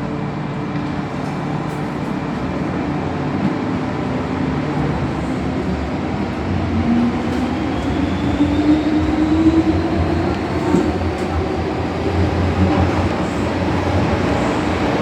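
MTR M-Train electric multiple unit running along the track, heard from on board. About six seconds in, a motor whine begins and rises steadily in pitch as the train accelerates.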